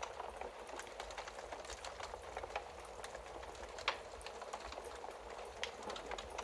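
Wood fire burning in a fireplace: a steady soft hiss with irregular crackles and pops, one sharper pop a little before the four-second mark.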